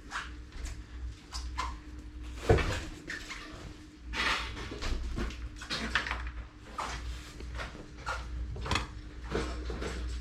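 Irregular knocks and clatter of hand work on metal parts, with one sharp knock about two and a half seconds in, over a steady low hum.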